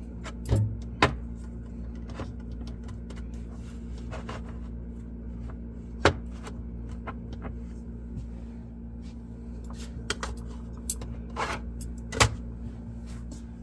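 Jars and bottles being handled and set down on refrigerator shelves: a few scattered clunks and knocks, the sharpest about six and twelve seconds in, over a steady low hum.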